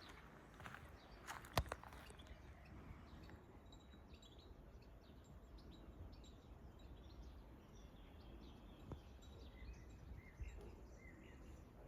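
Faint outdoor ambience with small birds chirping intermittently, after a few sharp clicks in the first two seconds.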